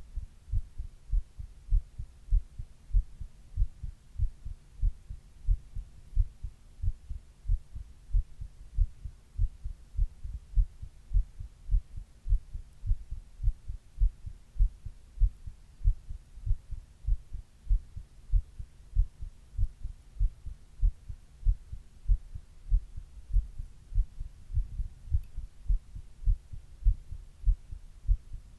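A person's own heartbeat picked up at the chest: a steady, regular beat of deep, low thuds.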